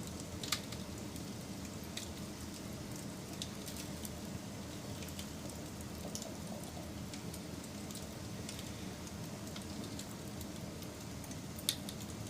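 Wood fire crackling: a steady low rush with scattered light crackles and two sharper pops, one about half a second in and one near the end.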